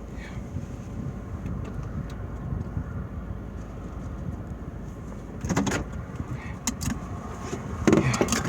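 Steady low rumble of a car driving, heard from inside the cabin, with a few sharp knocks and rattles about five and a half seconds in and again near the end.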